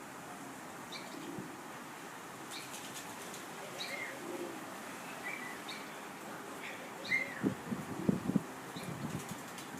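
Small birds chirping in short, scattered high calls, with a brief flurry of low fluttering thumps of wing beats about seven to eight and a half seconds in.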